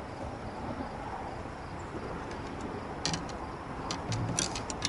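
Steady low outdoor rumble, then a quick run of sharp clicks and taps over the last two seconds.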